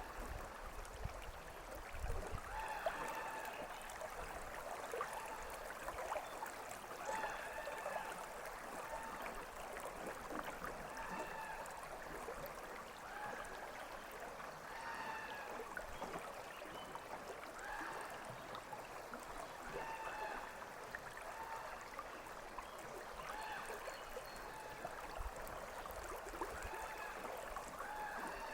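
River water flowing with a steady rush, while an American crow caws over and over, about one harsh call every two seconds.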